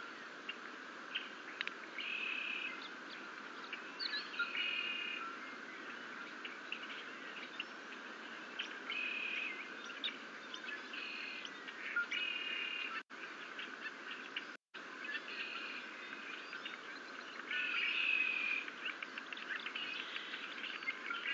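Wild birds calling outdoors, short high chirping phrases repeating every second or two over a steady background hiss. The sound cuts out briefly twice near the middle.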